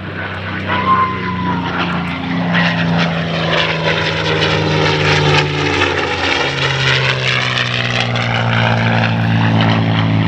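North American P-51D Mustang's Merlin V-12 engine and propeller in a low pass, building in loudness as it approaches. Its pitch drops about six seconds in as the fighter goes by.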